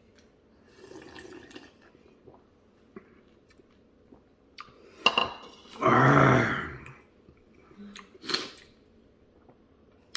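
A person slurping soup in a few short bursts, with one loud drawn-out sound from the throat about six seconds in.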